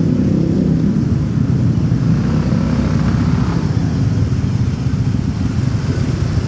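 Motorcycle engine running steadily under way, a dense low rumble mixed with road and traffic noise.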